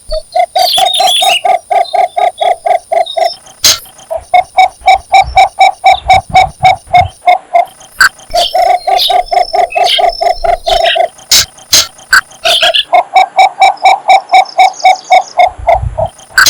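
Cinnamon bittern giving its mate-calling song: four runs of rapid, evenly spaced low croaking notes, about four a second, each run lasting about three seconds with short pauses between.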